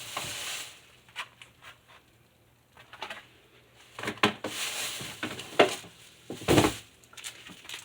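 Food containers and packages being handled inside a refrigerator: short bursts of rustling, with several sharp clicks and knocks, loudest in the second half.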